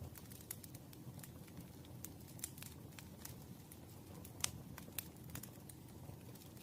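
Campfire burning: a low steady rumble of the flames with irregular crackles and pops from the burning wood, one sharper pop about two-thirds of the way through.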